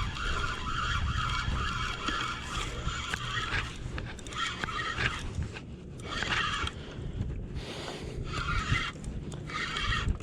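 Spinning fishing reel buzzing in bursts while a hooked fish is played: one long burst lasting about three and a half seconds, then four short ones. Under it runs a low rumble of wind and water.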